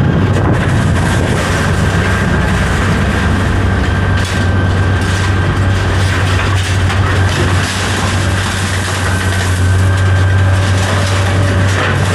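A vehicle engine running steadily, with a strong, even low hum.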